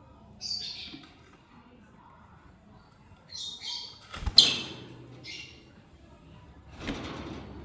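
Lovebirds giving short, high chirping calls several times, with a sharp knock a little past halfway that is the loudest sound, and a brief rustle near the end.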